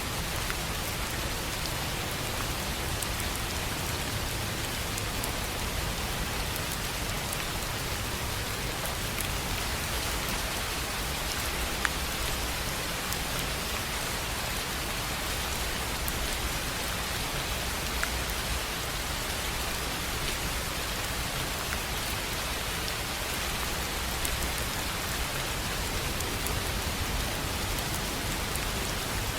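Steady rain falling on a tin roof, an even hiss of many drops, with a few louder single drops striking now and then.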